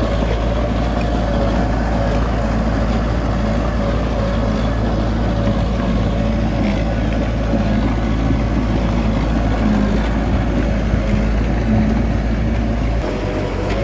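Heavy diesel earthmoving machinery engine running steadily, a loud low rumble with a wavering drone; the deepest part of the rumble eases a little near the end.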